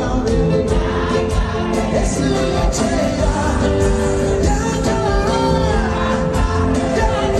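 Live African gospel song: voices singing in chorus over a band with drums keeping a steady beat.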